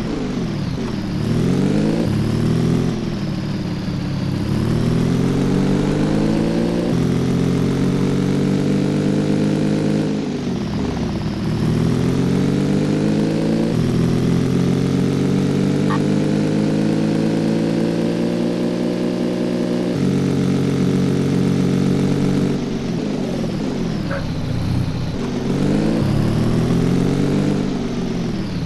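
Cafe racer motorcycle engine on the move, pulling up through the gears. Its pitch climbs steadily and drops abruptly at each upshift, about four times. Several times it falls away as the bike slows, then climbs again.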